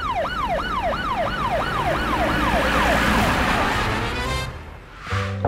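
Ambulance siren, a fast repeating wail at about three sweeps a second, over a low vehicle rumble; the siren fades out about three and a half seconds in.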